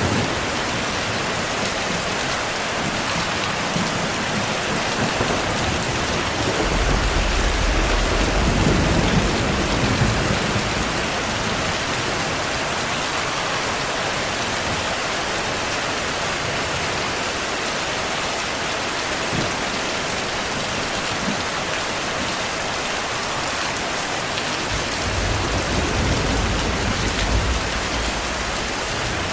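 Heavy rain falling in a steady, dense hiss, with low rumbles of distant thunder rolling in a few seconds in and again near the end.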